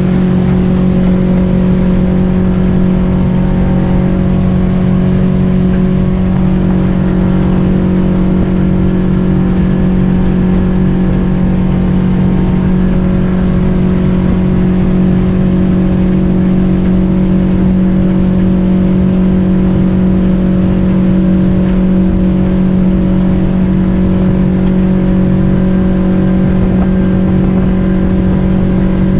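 Boat motor running steadily at cruising speed, one constant pitch with a rush of low noise under it.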